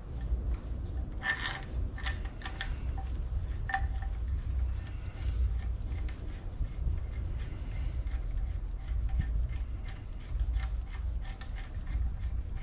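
Small metal parts clinking and tapping against each other with short ringing tones, loudest about a second in and again near four seconds, over a steady low rumble.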